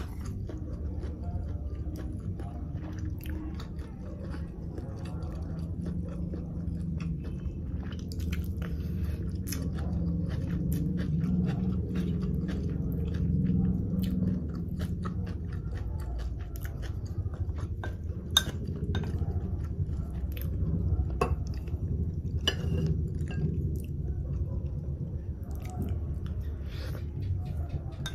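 Close-miked chewing of sea grapes (lato seaweed), a continuous run of wet mouth sounds with many small clicks, and a few sharper clicks in the second half.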